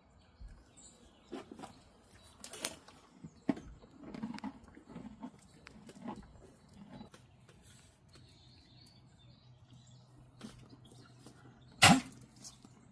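Scattered soft clicks and rustles with a few low muffled sounds from a horse moving about and eating close by, and one sharp knock near the end.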